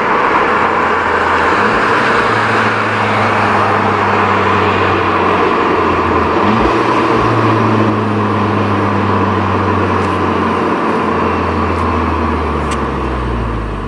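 Muffler-deleted VW Mk6 GTI's turbocharged 2.0-litre four-cylinder heard from inside the moving car over road and wind noise. The engine note climbs under acceleration, breaks at a DSG gear change about halfway through, climbs again, then falls away as the car slows near the end.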